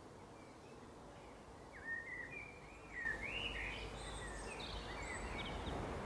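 Small birds chirping: a run of short whistled chirps and quick pitch glides starting about two seconds in and growing busier a second later, over a steady background hiss that picks up a low rumble.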